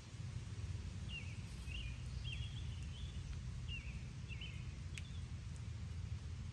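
Steady low background rumble with a bird giving a string of short chirps from about a second in until past the middle, and a single sharp click near the end.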